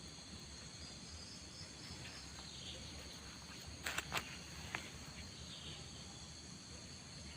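Faint outdoor chorus of insects (crickets or cicadas) holding steady high-pitched tones, with some warbling chirps. About four seconds in come three sharp clicks or snaps close together.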